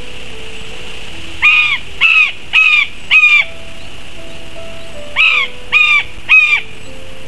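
Juvenile black kite calling loudly from above the nest: seven calls, each rising then falling in pitch, in a group of four and then a group of three. Soft background music runs underneath.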